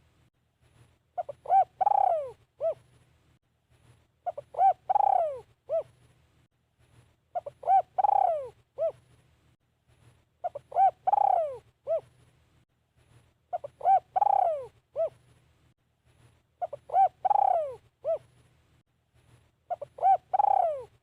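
Spotted dove cooing. The same phrase repeats about every three seconds, seven times: a few short coos, then a longer falling coo, then one short closing note.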